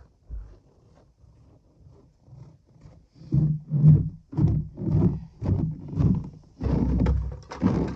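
Footsteps in snow, about two a second, starting about three seconds in after a near-quiet stretch with one soft thump.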